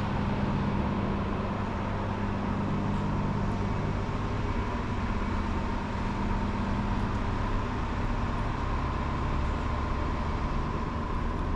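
A steady engine hum, with low tones and a faint high whine held level throughout.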